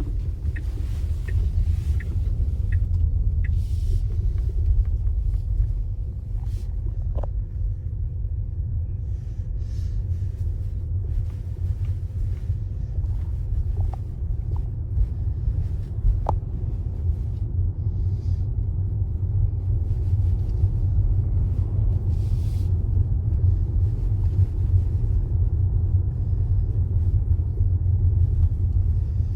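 Steady low rumble of a car driving, the road and engine noise heard from inside the moving vehicle.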